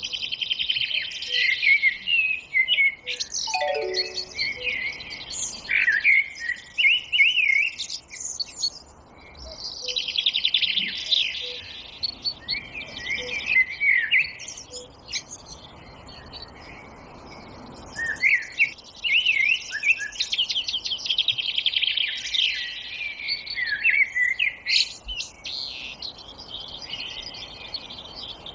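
Several songbirds singing at once, overlapping high chirps and rapid trills in repeated bursts, with a quieter stretch about halfway through.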